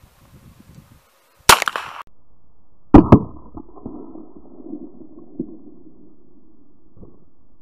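Russian Nagant revolver firing .32 S&W Long wadcutter rounds: one sharp report about a second and a half in, then two loud reports in quick succession about three seconds in.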